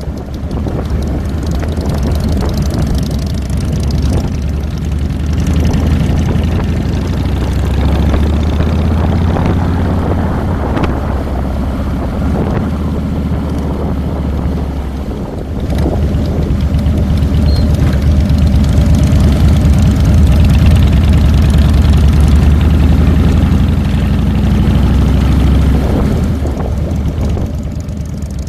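2007 Harley-Davidson Fat Boy's air-cooled 96-cubic-inch V-twin engine running while riding, heard from a handlebar mount with wind noise. About halfway through it drops off briefly, then runs louder again.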